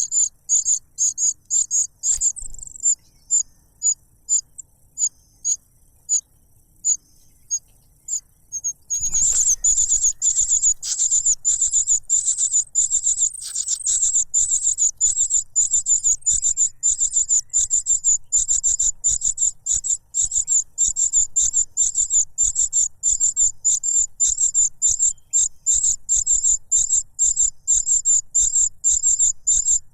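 Young cuckoo begging for food: high, thin cheeping calls, spaced out at first, then about nine seconds in a rapid, louder, unbroken run of calls.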